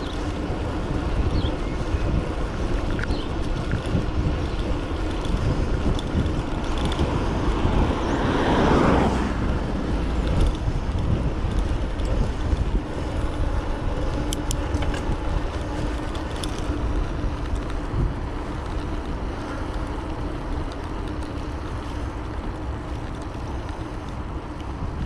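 Steady wind rumble and road noise on a helmet- or bike-mounted action camera while riding an electric bike, with a vehicle passing about eight seconds in, rising and fading.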